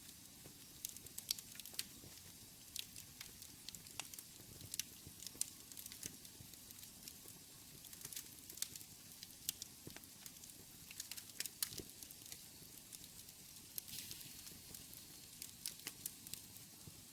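Wood fire in a fireplace crackling: irregular sharp pops and snaps, several a second, over a faint steady hiss.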